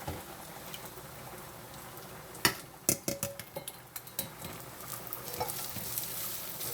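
Onions frying in oil in a pot, a steady sizzle, with a cooking utensil knocking and scraping against the pot several times in the middle as they are moved aside.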